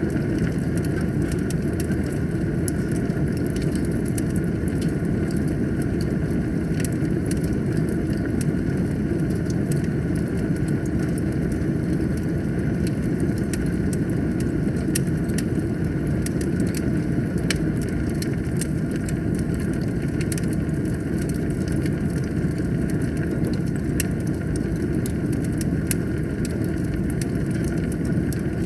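Fire burning in a fireplace: a steady low rumble of flames with many scattered small crackles and pops.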